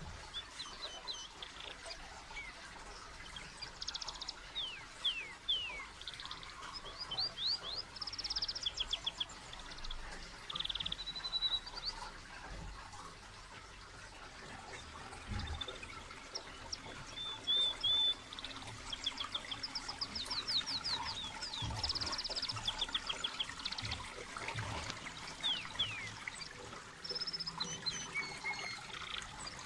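Small birds chirping and trilling in quick repeated phrases, over the steady trickle of water running down an artificial basalt-stone fountain.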